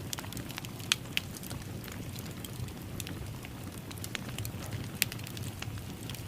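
Wood fire in a fireplace crackling: a steady low rumble of flames with scattered sharp pops, the loudest about a second in and about five seconds in.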